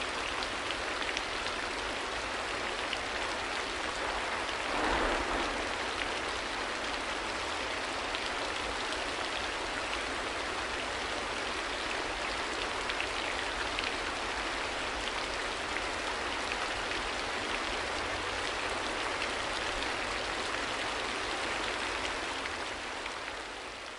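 Steady rain falling, an even hiss of drops, with a brief louder swell about five seconds in; it begins to fade out near the end.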